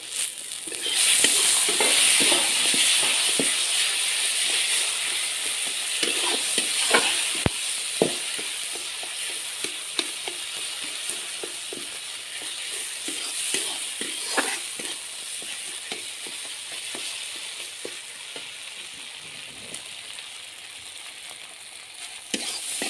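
Spice-and-tomato masala frying in a steel kadai, sizzling as a steel spatula stirs and scrapes it, with scattered clicks and knocks of the spatula against the pan. The sizzle jumps up about a second in and then slowly dies down.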